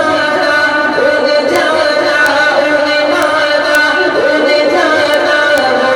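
Men singing an Urdu naat, the voices carrying long held melodic lines that bend in pitch.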